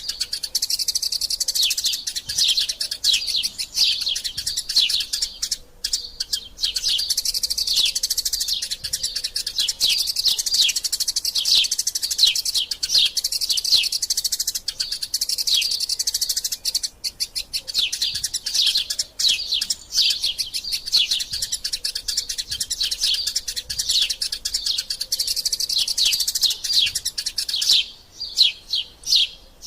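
Eurasian tree sparrows chirping in a fast, dense, unbroken chatter of short high chirps, the excited calling of sparrows squabbling. Near the end it thins to a few separate chirps.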